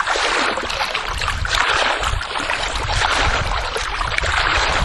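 Water running and splashing: a steady rushing noise that swells and eases slightly, over a low rumble.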